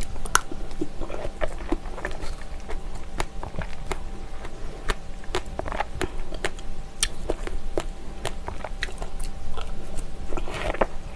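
Close-up eating sounds: fresh strawberries and plain yogurt being chewed, with many sharp, wet mouth clicks that come thicker near the end.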